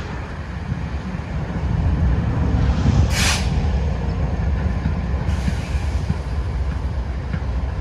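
Several BNSF diesel locomotives working a double-stack container train, a steady low rumble of engines and rolling train. A short sharp hiss comes about three seconds in.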